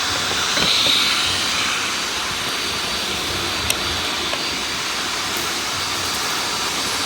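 Many vacuum cleaners, robot vacuums among them, running at once in a steady, even drone, with one sharp click about three and a half seconds in.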